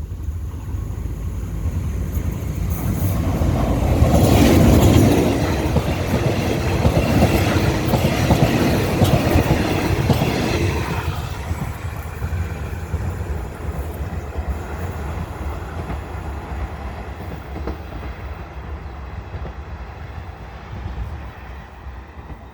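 Diesel-hauled ordinary passenger train passing close by: its engine and wheel clatter build to a peak about four to five seconds in, the carriages rattle past over the rail joints until about eleven seconds in, and the sound then slowly fades away.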